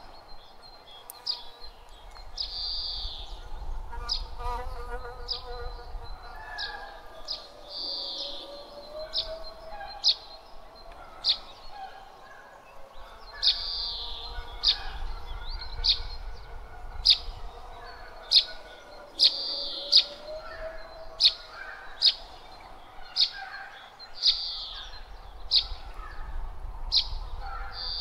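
Birds chirping: sharp high chirps about once a second, with a longer high call every few seconds, over a low rumble of breeze.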